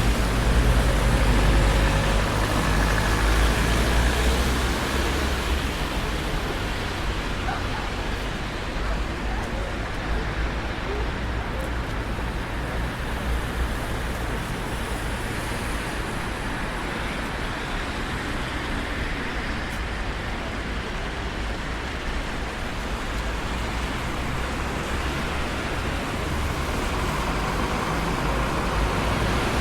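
Traffic on a busy city street: a steady wash of tyre and engine noise, with a low engine rumble loudest in the first few seconds as a vehicle passes, easing off, then building again near the end.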